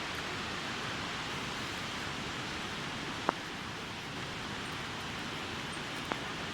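Steady hiss of rain falling, with two short sharp taps, about three and six seconds in.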